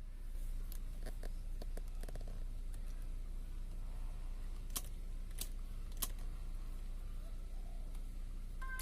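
A series of small clicks and taps, a quick cluster early and three sharper clicks about half a second apart in the middle, over a steady low hum.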